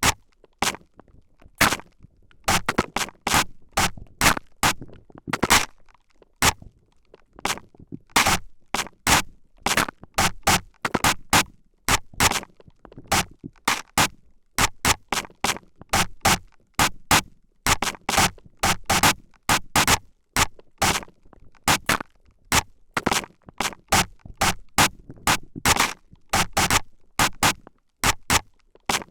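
Short spritzes from a spray bottle, very close to the microphone. They come in irregular quick runs of about one to three a second.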